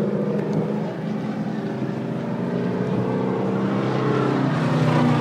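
Stock car engines running together as the pack circles the track, a steady drone of several overlapping engine notes that grows a little louder near the end.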